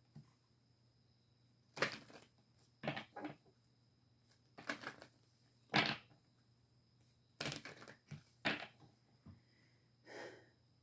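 Tarot cards being handled: a string of short, crisp rustles and snaps, spaced irregularly, as the cards are shuffled, flipped and laid down.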